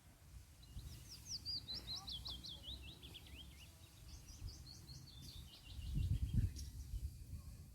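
A small bird singing a rapid run of short, downward-sliding whistled notes that drift lower in pitch, then a second, higher run of notes. A low rumble runs underneath and swells briefly about six seconds in.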